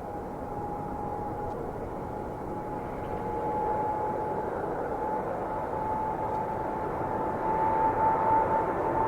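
Airplane engines running up for takeoff: a steady rushing noise with a whine that rises slightly in pitch and grows louder throughout.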